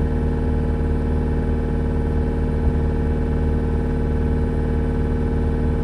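An engine running at a steady idle, an even, unchanging drone with no change in speed, and one small knock about two and a half seconds in.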